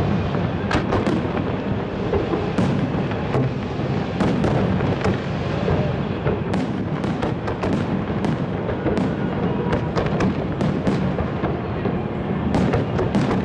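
Fireworks display: a continuous rumble of bursting shells with many sharp cracks and bangs coming irregularly, several a second at times.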